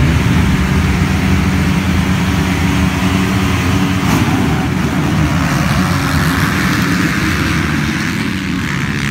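Motocross bike engines running steadily at a low, even pitch.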